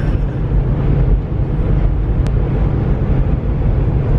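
Steady low drone of a semi truck's diesel engine and tyres at highway speed, heard from inside the cab, with wind noise mixed in. A single faint click comes about two seconds in.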